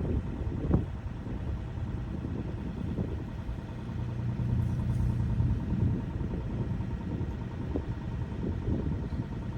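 Deere 27D mini excavator's diesel engine running, with a low hum that grows louder for a couple of seconds near the middle and a few brief knocks.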